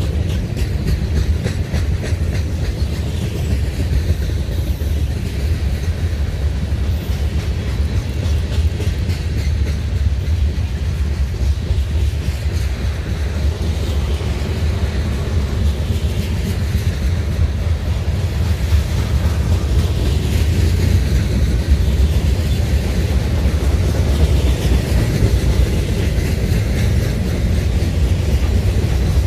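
CSX freight train's cars rolling past, a steady heavy rumble with the wheels clicking over the rail joints.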